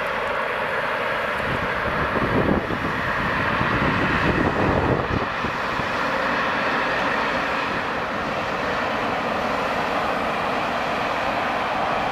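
Freight train passing: an SNCF BB 26000 electric locomotive with a second locomotive in tow and tank wagons. A steady noise of the locomotives and wheels on the rails, loudest between about two and five seconds in.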